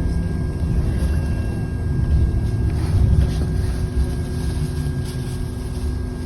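City bus interior noise: a steady low engine and road rumble with a faint constant whine running through it.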